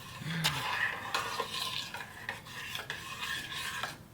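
A spoon stirring a pot of butter-and-milk white sauce, scraping round the pan in a run of short strokes and light clicks as the sauce heats and thickens.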